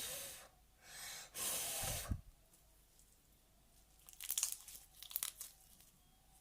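Small glitter slime and its plastic container being handled: a couple of soft hissing rustles near the start, then a run of short crackling and clicking sounds about four seconds in.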